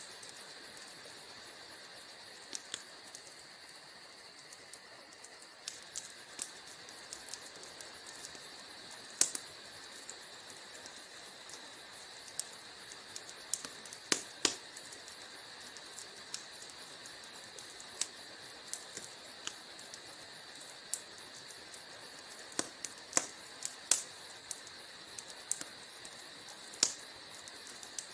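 Wood fire crackling in a fireplace: irregular sharp pops and snaps, a handful of them much louder, over a steady soft hiss.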